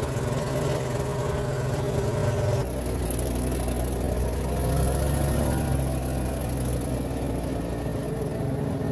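Car engine running steadily with a low hum, heard from the moving vehicle; the sound changes abruptly about two and a half seconds in.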